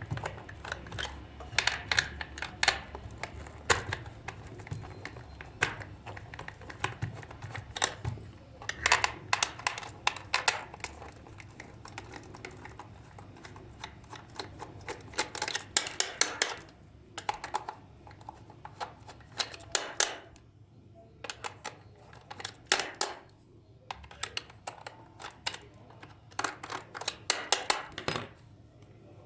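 Irregular clicks and clatter of small hard parts being handled, in quick clusters with brief pauses, as the toy is worked on.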